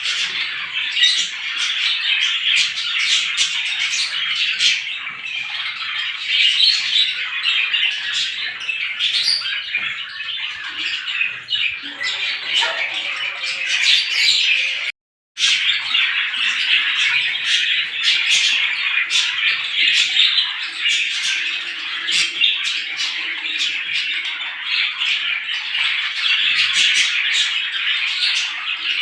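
A dense chorus of many small birds, sparrows, chirping and chattering together without pause. It cuts out abruptly for about half a second midway, then resumes.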